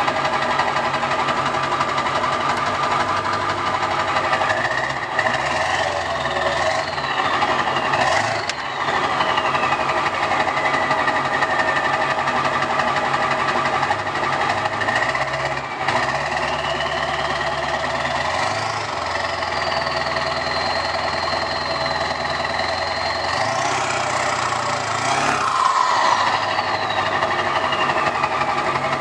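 Straight-piped 7.3 L Power Stroke V8 turbodiesel in an early 1999 Ford running with a diesel clatter and revved twice. Each time the turbo whistle climbs and then falls away as it spools down; the second rev is held for several seconds before a final higher climb.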